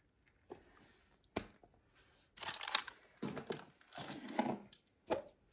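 Plastic toy packaging being handled, crinkling and rustling in short bursts, with a couple of sharp plastic clicks.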